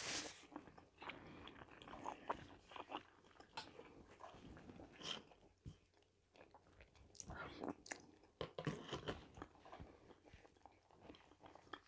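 Quiet chewing and mouth sounds of a person eating soft zucchini fritters, close on a clip-on microphone, with scattered small clicks.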